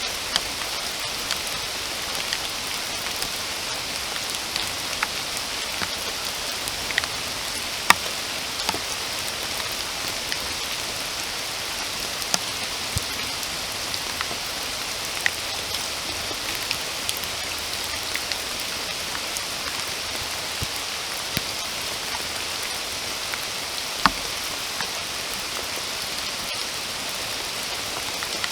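Steady rain falling, a even hiss dotted with the clicks of single drops landing close by; two drops strike louder, about eight seconds in and near the three-quarter mark.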